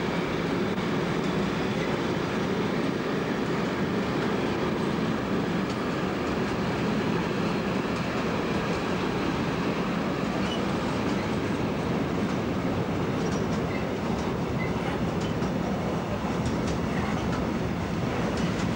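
Freight train of loaded container flat wagons rolling past close by: a steady, even rumble of steel wheels on the rails. Sharp wheel clicks over the track come in during the last few seconds.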